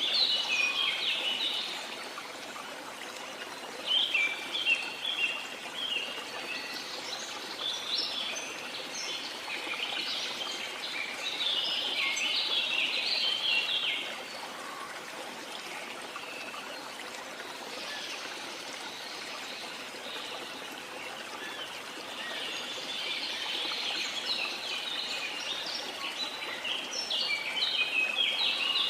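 Small birds chirping in quick bursts, a few seconds apart, over a steady rush of water.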